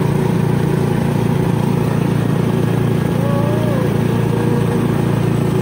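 Small motorcycle engine running at a steady pace, as from a tricycle in motion, with no change in speed. A faint voice rises and falls briefly about three seconds in.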